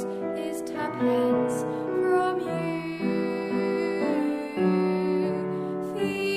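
Slow, gentle piano music in a lullaby style, its sustained notes and chords changing about once a second.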